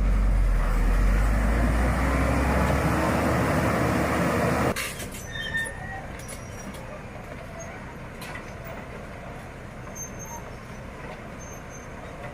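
Heavy vehicle engine running with a loud deep rumble that cuts off abruptly just under five seconds in, leaving a quieter background with a few light clicks.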